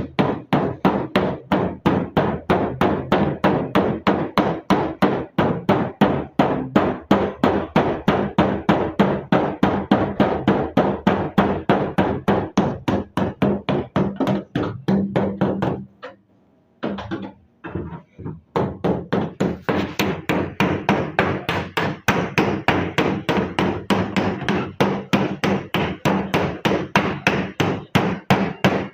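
Hammer rapidly beating a steel car body panel in panel-beating work, about four to five even blows a second. The blows stop for about two seconds past the middle, with only a few scattered strikes, then resume at the same pace.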